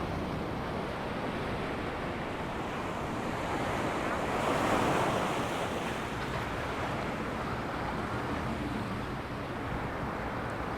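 Ocean surf breaking and washing up a sandy beach, a steady rush that swells into a louder wave about four to five seconds in.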